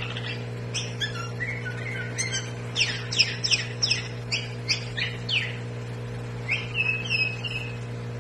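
Kutilang batik bulbul calling: a few lower whistled notes, then a quick run of descending whistled notes at about three a second in the middle, and a short series of level chirps near the end. A steady low hum runs underneath.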